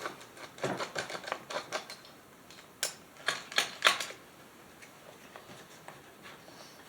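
Hand tools and small metal parts clicking and clacking while a chainsaw is worked on: a quick run of light clicks, then a few louder clacks about three to four seconds in, then only faint ticks.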